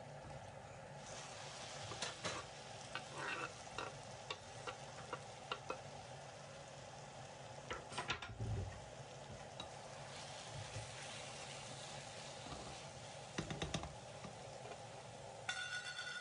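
Food sizzling in a frying pan, with scattered clicks and knocks of a utensil stirring it against the pan. A short electronic beep near the end.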